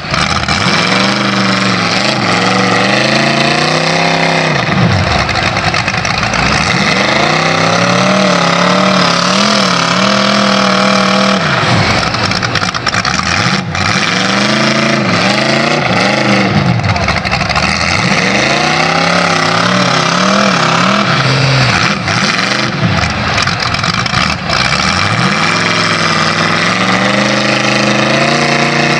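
Cummins diesel engine of a mud bog truck revving hard again and again, its pitch climbing and dropping about eight times as it works under load.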